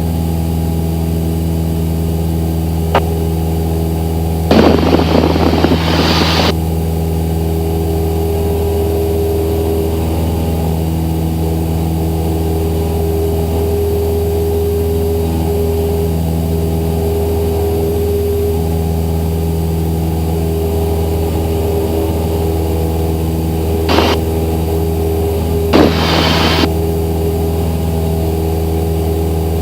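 Cessna 172SP's Lycoming four-cylinder engine and propeller droning steadily in flight at constant power. A few short, loud bursts of hiss cut in over it, about five seconds in and twice near the end.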